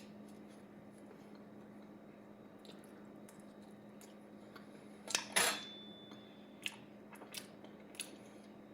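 Mostly quiet, with a steady low hum. About five seconds in there is a short clatter of tableware, followed by a few light clicks, as the pizza is handled and eaten at the table.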